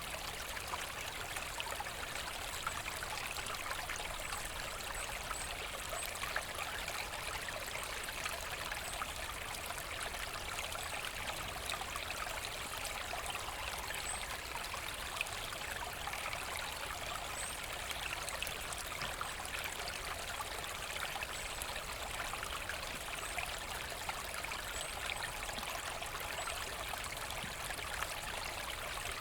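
Forest brook running over stones: a steady rush and trickle of water with many small splashes.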